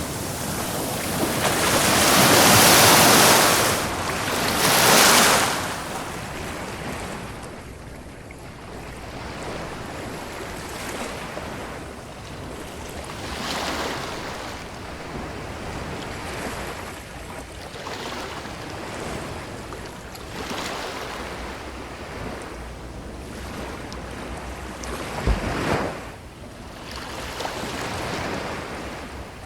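Ocean waves washing onto a beach: two big washes in the first five seconds, then smaller waves breaking and running back every few seconds. A brief knock near the end.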